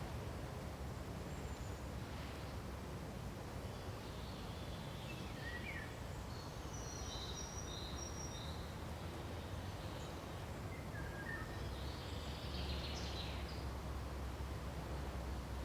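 Pine forest ambience: a steady hiss over a low rumble, with birds giving short chirps and brief whistled notes scattered throughout, a busier cluster of calls near the end.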